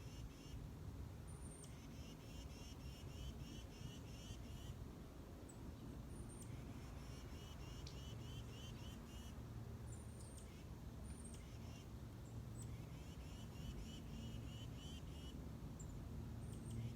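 A songbird singing a quickly repeated phrase, about three phrases a second, in three runs of about three seconds each, with thin high call notes between them, over a steady low rumble.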